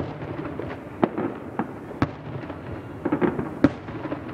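Fireworks bursting in quick, irregular succession: a dozen or so sharp bangs, each with a short echo, several crowding together about three seconds in. These are the many shells of a fireworks finale.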